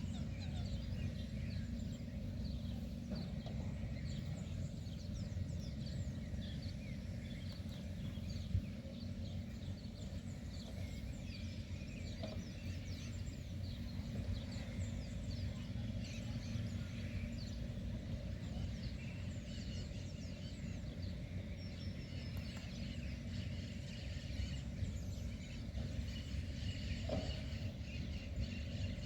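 Outdoor ambience of many birds chirping in short, quick calls over a steady low rumble.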